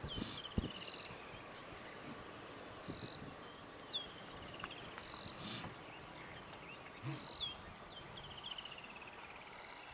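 Birds calling: short sharp high notes and quick trills that run down in pitch, repeated about four times.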